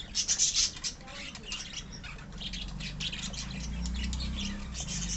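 A flock of caged lovebirds and budgies chattering and squawking, with rapid overlapping high chirps that are loudest in the first second. A low steady hum rises underneath from about halfway in.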